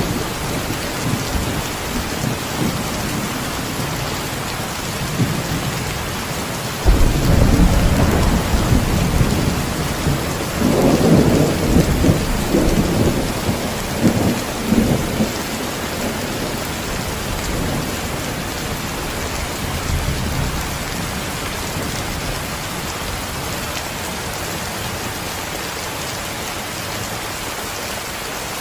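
Steady rain hissing, with thunder rumbling under it. A heavier peal breaks in suddenly about seven seconds in, rolls for several seconds and dies away.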